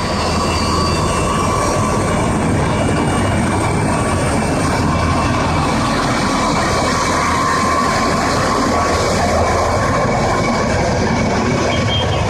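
Antonov An-225's six turbofan jet engines running loud and steady, a continuous roar with a high whine over it. The sound swells up at the very start and then holds.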